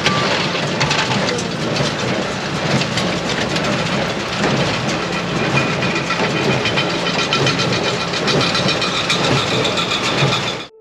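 Farm machinery running: a steady engine hum under constant rattling and clatter, which stops abruptly near the end.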